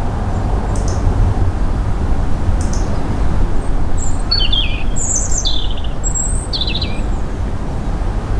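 Small birds chirping in short, falling calls, a cluster of them about four to seven seconds in, over a steady low rumbling noise.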